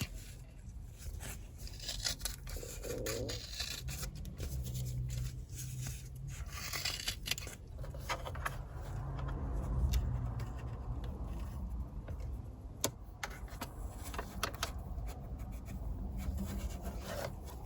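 Scratching and rubbing of self-adhesive felt tape being cut and pressed onto the plastic contact points of a BMW 3 Series instrument cluster, with scattered small clicks and a low rumble underneath.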